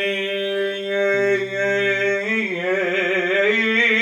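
A man's unaccompanied chanting voice in Iraqi Shia lament style holds one long steady note for about two seconds, then breaks into wavering melismatic trills, the ornamentation called tafleesh.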